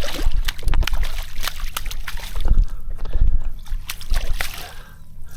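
Water splashing and sloshing as a hooked trout is played at the surface, with close knocks and low rumbles throughout.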